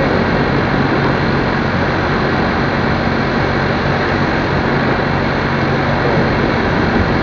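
Motorcycle running steadily under way, its engine a low even drone beneath a loud, unbroken rush of wind and road noise on the microphone.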